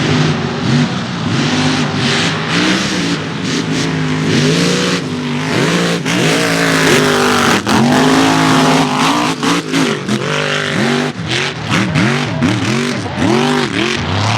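Mega mud truck engine revving hard and repeatedly, its pitch climbing and dropping over and over as the throttle is worked, with quicker swings in the second half.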